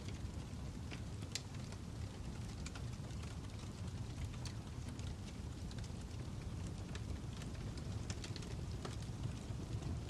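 Wood fire crackling: a steady low rumble of burning with irregular sharp pops and snaps, a few each second.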